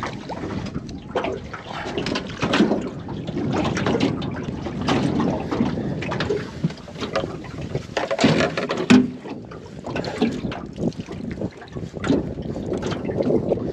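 Water splashing and trickling, mixed with irregular knocks and handling noises in a small boat and some wind on the microphone, the loudest burst about eight to nine seconds in.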